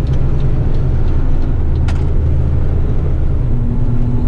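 Eight-wheeler twin-steer waste truck's diesel engine running under way, heard from inside the cab as a steady, loud low drone. There is a single short click about two seconds in.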